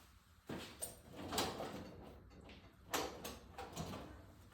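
A few sharp clicks and knocks with scraping, from hand tools and a screw being worked loose on a drilling jig fixed to an engine block.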